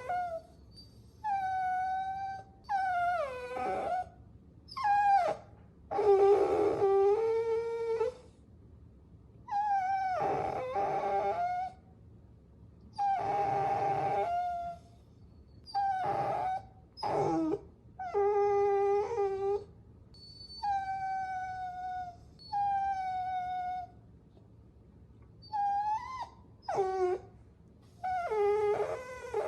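Puppies whining: a string of about a dozen high-pitched whines, each around a second long and many sliding down in pitch, with short pauses between.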